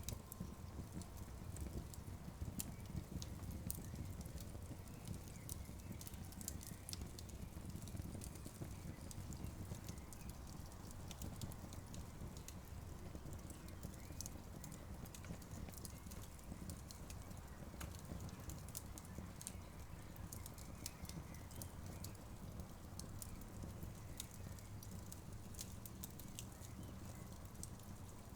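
Wood campfire burning with a low steady rumble of flames and irregular sharp crackles and pops, busier in the first half.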